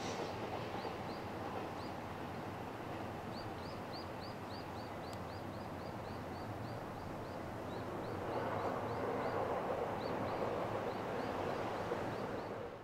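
Steady outdoor background noise with a string of quick, short, high chirps, about three a second. From about two-thirds of the way in, a broader rushing noise swells up.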